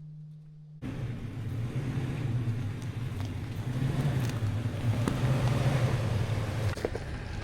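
A low steady hum for under a second, then a pickup truck driving on a dirt road: steady engine rumble and road noise with scattered small knocks, easing slightly near the end.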